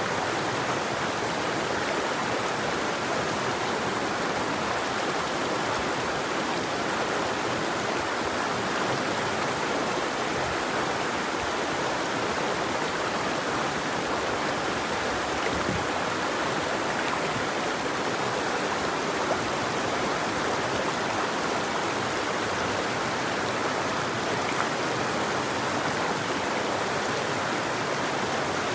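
River water flowing steadily over rocks, an even rushing with no birdsong.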